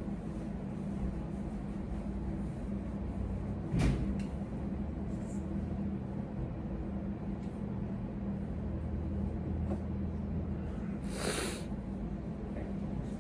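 Steady low hum, with a single sharp knock about four seconds in and a brief hiss a little before the end.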